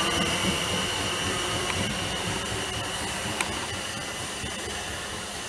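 South Western Railway electric multiple-unit train moving away along the platform, its running noise and a thin steady high whine fading as it recedes. A sharp click comes about three and a half seconds in.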